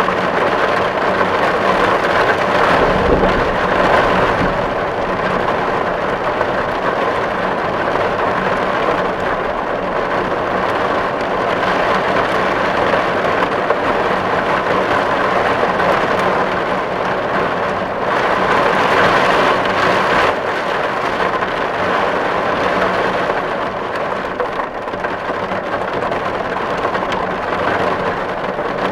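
Steady, dense rain drumming on a tin roof, a continuous patter of drops on metal. A low rumble sits under it a few seconds in.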